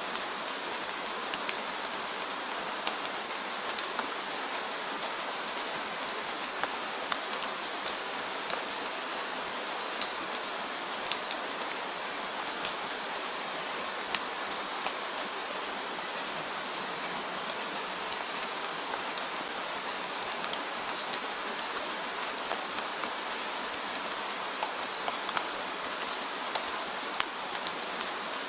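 Steady rain falling, an even hiss with scattered sharp drips of individual drops striking a surface.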